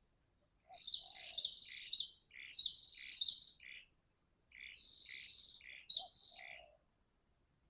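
Recorded bird calls in two bouts of about three seconds each: bright high chirping phrases, over a fainter low two-note coo of the kind a spotted dove (tekukur) gives.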